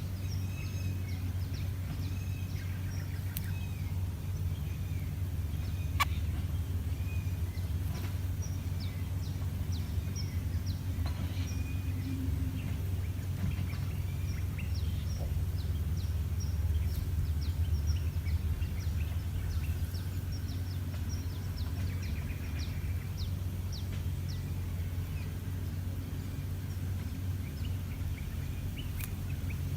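Wild birds chirping and calling in many short notes over a steady low rumble.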